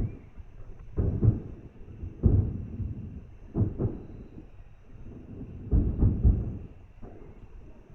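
Distant aerial fireworks shells bursting: a series of dull booms every second or two, some in quick pairs, each trailing off in a short rumble.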